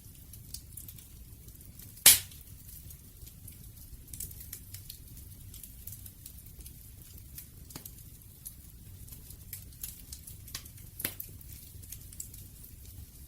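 Wood fire crackling: scattered small pops and snaps over a low steady rumble, with one loud sharp pop about two seconds in and another near the end.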